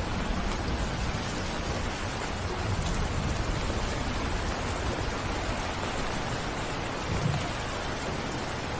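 Heavy rain falling steadily, with a low rumble underneath and one brief, louder low swell near the end.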